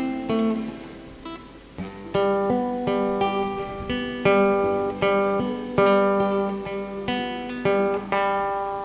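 Guitar playing an instrumental passage of chords, each struck and left to ring out, with a brief softer lull about a second in.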